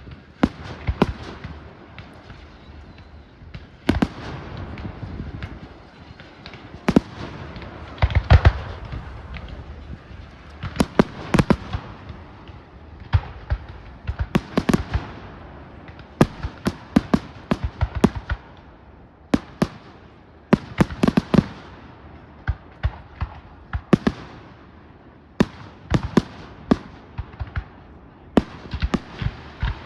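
Fireworks display: rapid, irregular bangs and crackling bursts of aerial shells going off in clusters, with the rumble of launches and fizzing between them.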